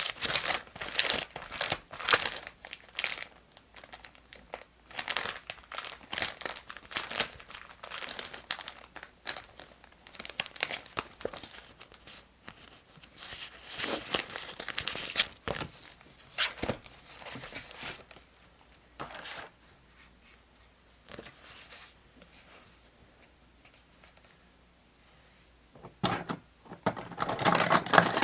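Paper and plastic stationery being handled at a desk: quick crinkling and rustling strokes with short tearing sounds, busy for most of the clip, then a quiet spell and a last burst of rustling near the end.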